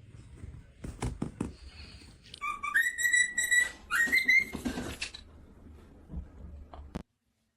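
A parrot whistling: two short whistled phrases, each rising to a held high note, after a few sharp taps about a second in.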